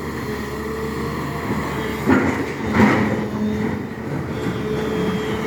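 SANY excavator's diesel engine running steadily, with two sharp knocks about two and three seconds in.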